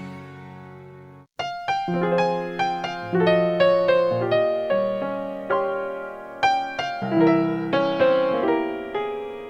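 A previous song's ending dies away, and after a brief silence about a second in an instrumental piano introduction begins: single notes and chords struck at a moderate pace, each decaying.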